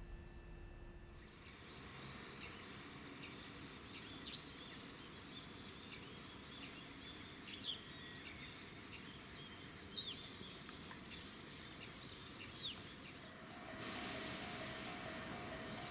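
Birds calling outdoors: several quick runs of high, falling chirps over a low background hum. Near the end a wider rushing noise and a pulsing ringing tone start.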